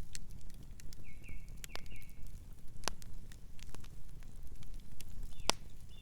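Campfire burning, with irregular sharp crackles and pops from the wood over a steady low rumble of the flames. A few short high chirps sound about a second in and again near the end.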